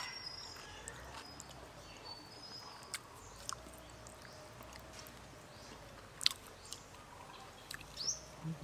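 Soft mouth sounds of chewing raw beef liver, with a few faint wet clicks from the mouth and the fingers handling the meat. Small birds chirp faintly in the background.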